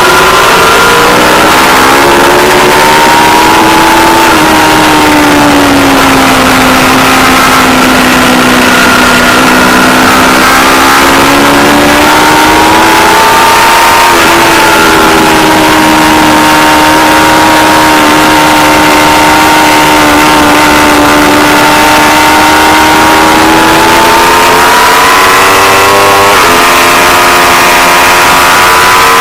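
Aprilia Tuono V4 Factory's V4 engine at speed on track. The note drops over the first several seconds, holds, then climbs again toward the end with an abrupt step at a gear change, over steady wind rush; the recording is loud and harsh.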